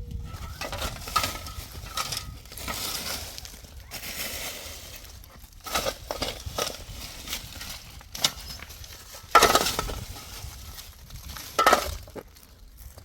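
Irregular crunching and scraping, with a few sharper, louder knocks about six, nine and a half and twelve seconds in.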